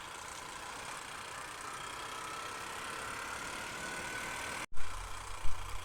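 Honda Unicorn single-cylinder motorcycle running on the road, with a faint whine rising slowly in pitch over a few seconds. About three-quarters through, the sound drops out for an instant, then comes back with heavy wind rumble and buffeting on the microphone.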